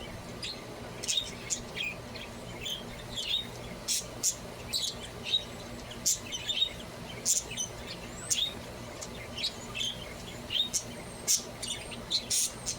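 Pet budgerigars chirping and twittering, a stream of short, quick chirps in irregular succession.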